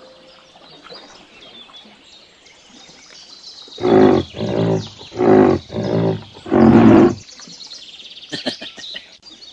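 Rhinoceros grunting: five loud, low, pulsed grunts in quick succession starting about four seconds in, after a few seconds of faint background.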